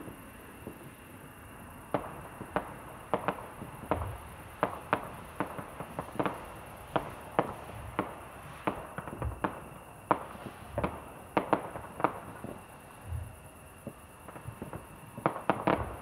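Fireworks and firecrackers going off in the distance: many irregular sharp bangs starting about two seconds in, with a few deeper booms among them.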